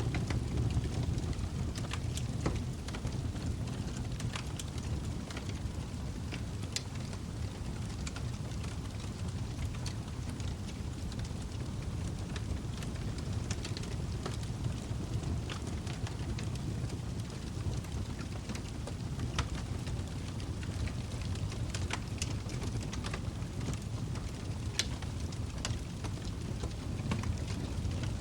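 Log fire burning: a steady low rumble of the flames with frequent scattered crackles and pops from the burning wood.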